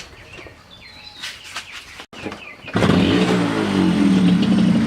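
Small moped engine starting up about two and a half seconds in, its pitch rising briefly before it settles into a steady idle. Faint bird chirps before it.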